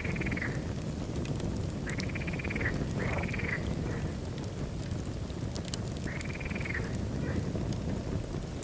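Wood fire burning in a fireplace: a steady low rumble with scattered crackles and pops. Four short squeaky calls, each rising and falling in pitch and lasting about half a second, sound at the start, around two and three seconds in, and past six seconds.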